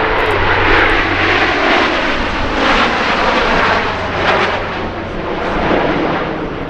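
Airplane flying past with its engine running loud and steady, a dense rushing drone that swells and eases a little.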